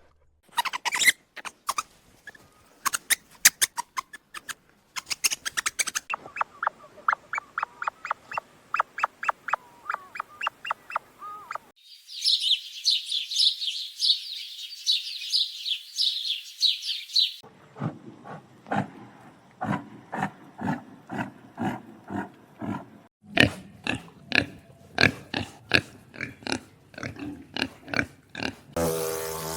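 A run of different animal sounds cut together: quick repeated short calls, then a stretch of high-pitched squeaking, then more quick repeated calls.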